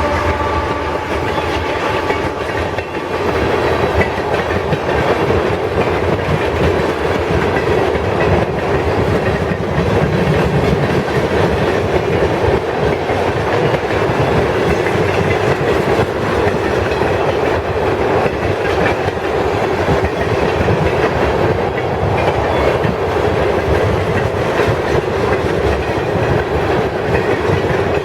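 Freight train rolling past, a steady loud rumble with the clickety-clack of car wheels over the rail joints.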